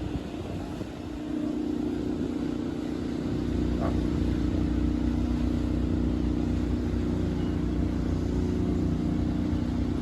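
A steady engine drone, growing louder over the first few seconds and then holding at an even level.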